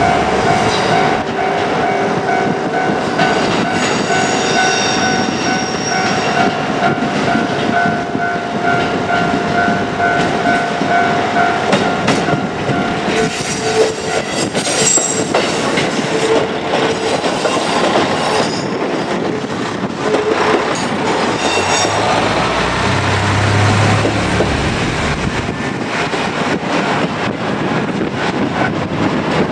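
JR Kyushu KiHa 200 diesel railcar running over a level crossing. For the first dozen seconds the crossing's warning alarm rings steadily over the railcar's noise. From about 13 seconds in, the diesel engine and the clatter of wheels over the rail joints take over, with a deeper engine drone a little past the middle.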